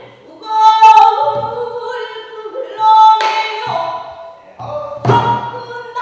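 Pansori singing: a solo voice holding and bending long sung notes, with a few low strokes of the buk barrel drum accompanying it.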